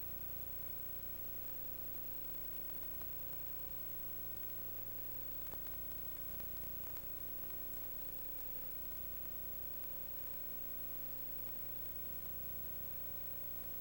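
Steady electrical hum and hiss with a held tone, broken by a few faint clicks.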